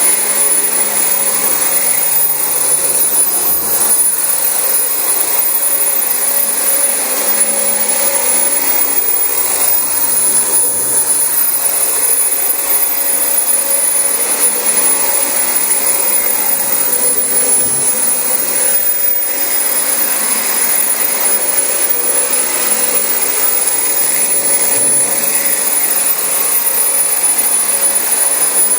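Dyson DC25 bagless upright vacuum cleaner running steadily while vacuuming carpet, with a thin high whine over its rushing airflow.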